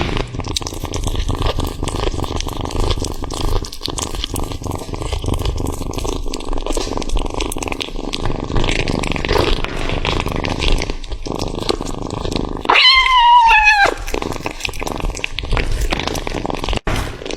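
A cat eating close up: steady rough chewing and crackling with many small clicks. About three-quarters of the way through comes one short meow of about a second, sliding slightly down in pitch.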